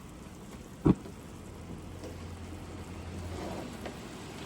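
Minced-meat pasta sauce sizzling in a pan, an even crackling hiss, with one sharp knock about a second in and a low hum for a couple of seconds after it.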